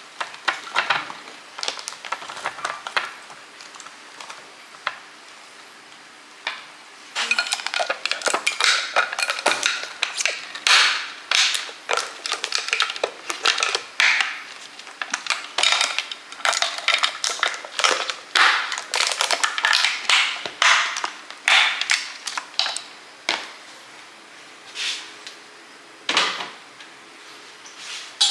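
Groceries being handled and put away: plastic packaging crinkling and items clattering as they are set down. It is sparse at first and turns into a dense, busy run from about seven seconds in, easing off near the end.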